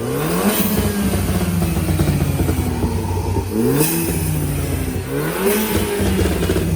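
Car engine revving three times: each time the pitch climbs quickly, then falls off slowly.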